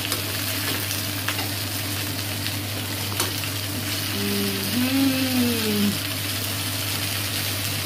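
Chopped vegetables (onion, carrot, potato, okra and peppers) sizzling steadily as they fry in hot oil in a frying pan. A metal spoon stirring them clicks against the pan a couple of times.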